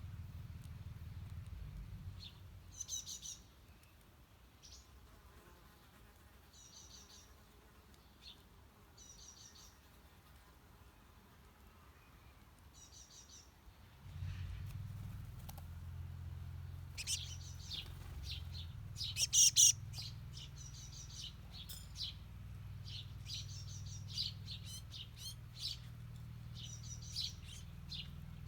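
Small birds chirping in short, repeated bursts, a few scattered calls at first, then busier and louder in the second half. A low rumble underneath stops about two seconds in and comes back about halfway through.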